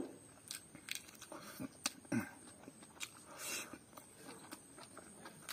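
A man eating rice and pork curry by hand, close to the microphone: a scatter of sharp wet mouth clicks and smacks as he chews, a brief low hum just after two seconds, and a short breathy hiss about three and a half seconds in.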